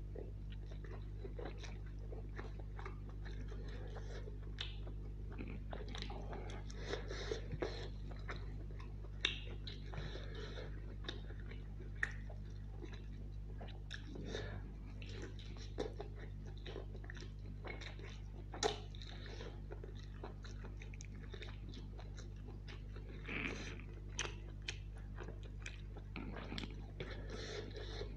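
Close-miked chewing of vegetable biryani rice and chicken curry, eaten by hand, with short sharp clicks scattered throughout over a steady low hum.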